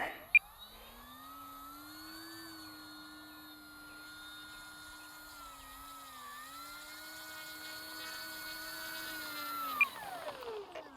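Electric motor and propeller of an FMS Cessna 182 RC plane running as a steady whine that rises shortly after the start and dips slightly midway. Near the end the throttle is cut and the whine falls away to a stop.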